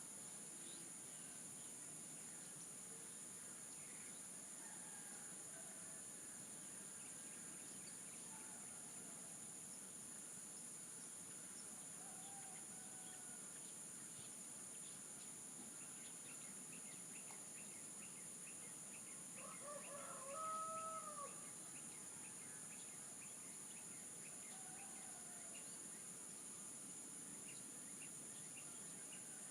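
Roosters crowing in the distance, with one nearer, louder crow about two-thirds of the way through, over a steady high insect drone. A faint regular chirping, about two or three a second, runs through the second half.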